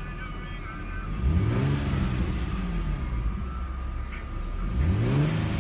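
2004 Infiniti G35's 3.5-litre naturally aspirated V6, heard from inside the cabin, revved twice from idle. The engine note climbs and falls back about a second in, then climbs again near the end.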